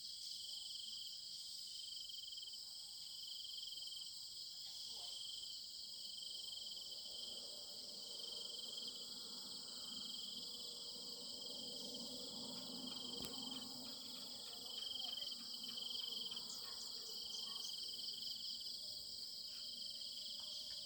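Chorus of crickets or other insects: a steady, high-pitched trilling with a faintly pulsing note.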